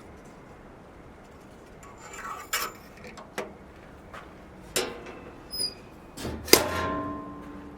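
A few sharp metallic clanks and clinks from metal objects being handled. The loudest, near the end, rings briefly like struck metal.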